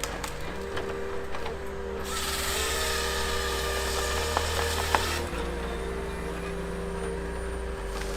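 A powered wood-processing machine running steadily, with a harsh stretch of cutting through wood from about two seconds in to about five seconds in, and a few sharp cracks.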